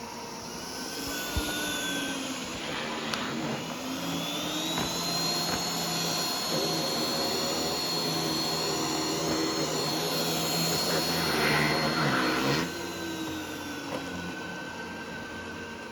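ECOVACS Deebot X2 Omni robot vacuum running on carpet. Its motor whine climbs over a couple of seconds to a steady high pitch and grows louder, then drops off sharply a few seconds before the end, settling back to a lower hum.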